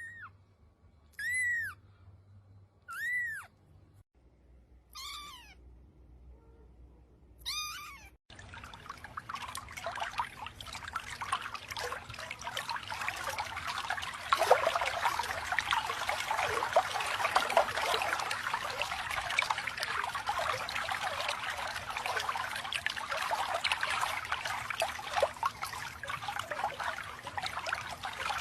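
A cat meowing five times in short, high calls, then water running and splashing steadily for the rest of the time, louder about halfway through.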